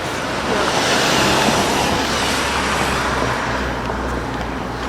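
A car passing by on the street, its road noise swelling to a peak about a second in and then fading.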